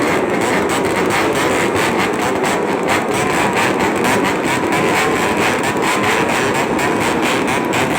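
Motorcycle with an aftermarket racing exhaust running steadily, giving a loud, rough exhaust note with a fast, even pulse.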